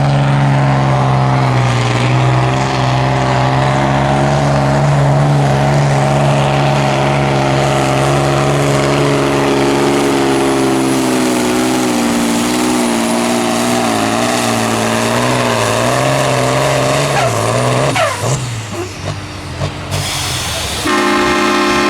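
Pulling tractor's engine running hard under load, a loud sustained note that wavers and sags slightly, then drops away sharply about eighteen seconds in. Near the end a different steady tone starts.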